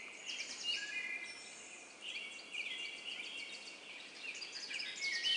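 A quiet chorus of several birds chirping and trilling at once, with many short high chirps and a few brief whistled notes overlapping.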